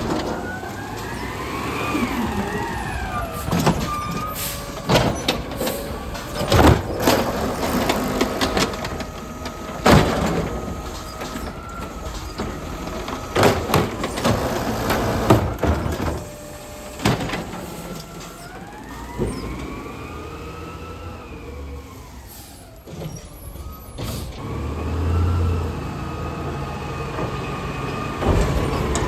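Garbage truck working its route: the engine revs up and falls back twice, with a run of loud bangs and clanks in between.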